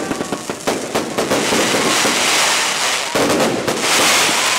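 Aerial fireworks going off in quick succession: a rapid run of sharp bangs, then a dense crackling that swells from about two seconds in and lasts almost to the end.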